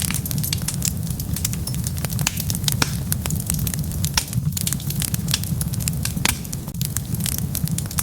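Wood fire burning with dense crackling: many sharp pops and snaps, several a second, over a steady low rumble of the flames.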